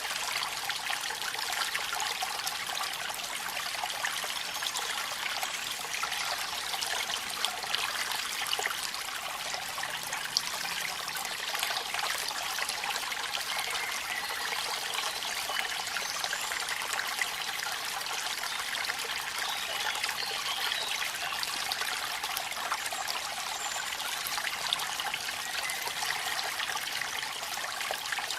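Steady splashing of a small waterfall and running stream in the rain, an even rush with fine drops and a few sharper drip ticks about 8 and 10 seconds in.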